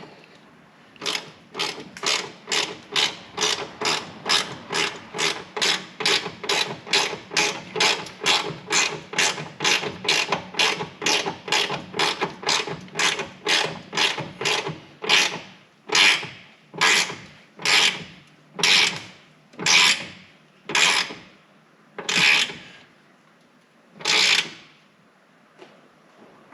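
Hand ratchet wrench clicking as it tightens exhaust clamp nuts, a steady run of about two to three clicks a second. Later the strokes slow to about one a second and get louder as the clamp draws tight, then stop.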